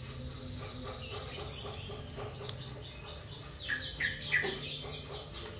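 Small birds chirping in runs of quick, falling notes, busiest about two-thirds of the way through, over a faint steady low hum.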